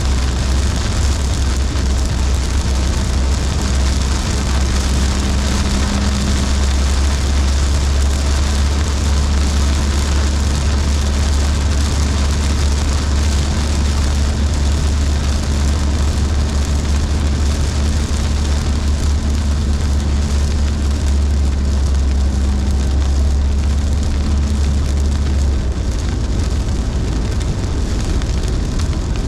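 A car driving in heavy rain: steady road and tyre noise with a deep rumble under a constant hiss of rain and spray. The deep rumble drops away near the end.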